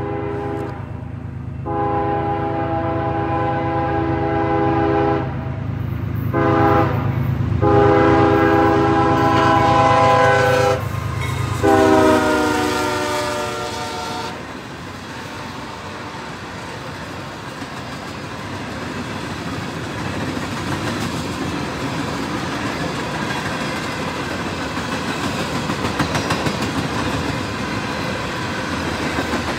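Freight locomotive's air horn blowing several blasts for a grade crossing over the rumble of its diesel engine, the last blast dropping in pitch as the locomotive passes. Then the freight cars roll by with a steady clatter of wheels on the rails.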